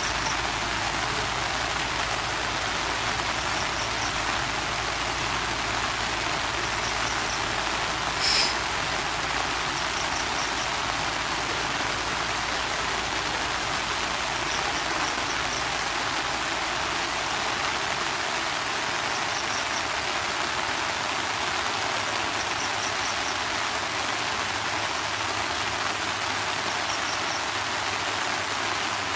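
Steady rain falling, an even hiss. A faint high chirp of three or four quick notes repeats every few seconds, and a single sharp click about eight seconds in is the loudest moment.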